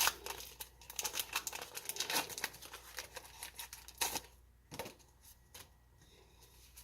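Foil booster-pack wrapper crinkling and tearing, with dense crackly rustling that thins out to a few light clicks after about four seconds.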